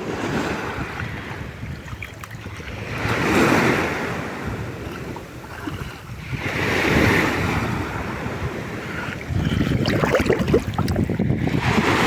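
Sea waves surging and washing in two swells, with wind buffeting the microphone; a louder, steadier rumble of wind and water sets in about three-quarters of the way through.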